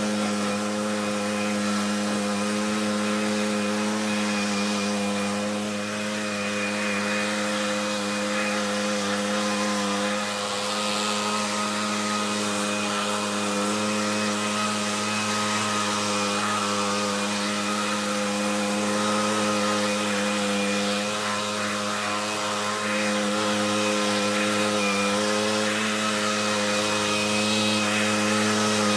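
Stihl BR600 backpack leaf blower's small petrol engine running at a steady speed on its test run after new fuel lines and a new fuel cap were fitted, a little louder over the last few seconds.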